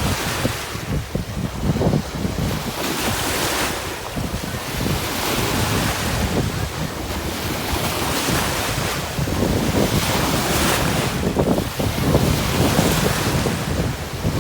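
Ocean surf breaking and washing up a beach, the wash swelling and fading every few seconds.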